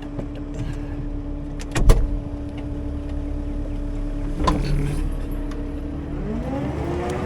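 CAT 310 excavator's diesel engine running steadily under hydraulic work, with a sharp loud knock about two seconds in and a smaller one a couple of seconds later, then the engine revving up near the end.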